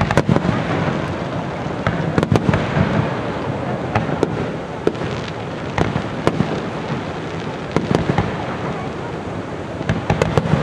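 Aerial fireworks shells bursting: sharp bangs and crackles at irregular intervals over a steady background noise, coming thicker near the end.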